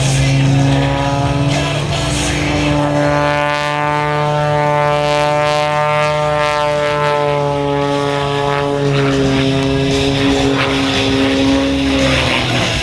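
Propeller airplane flying past with a steady engine drone that grows strongest midway and then slides gradually lower in pitch as it goes by, over a constant low hum.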